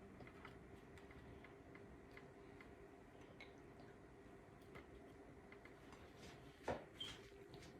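Near silence broken by faint, irregular light clicks and ticks, with one louder sharp click near the end.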